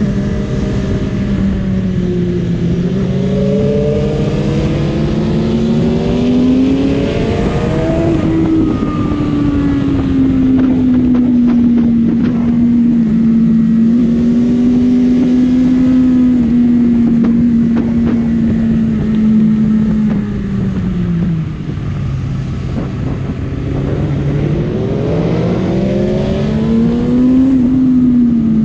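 Honda CBR600RR's inline-four engine under way: it pulls up in pitch, holds a fairly steady note, eases off about two-thirds of the way through, then pulls up again before dropping back near the end.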